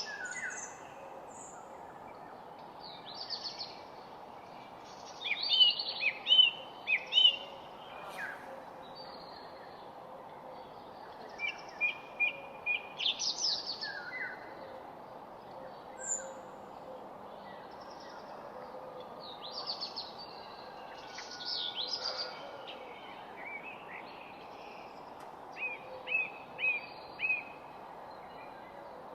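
Several birds chirping and singing in short phrases and trills, over a steady background hum of distant noise.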